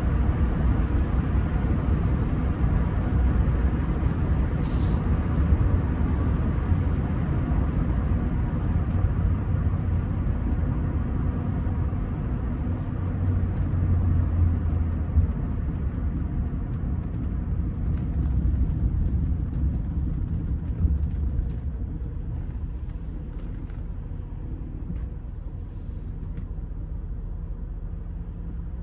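Rolls-Royce Silver Spirit III on the move: a steady low rumble from its 6.75-litre V8 with tyre and road noise, growing quieter in the last several seconds.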